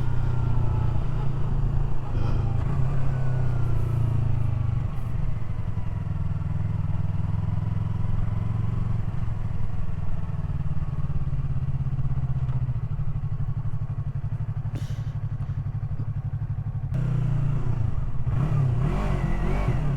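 Yamaha R3's parallel-twin engine running steadily at low revs, heard from the rider's camera. It gets slightly quieter for a few seconds, then louder again about three seconds before the end.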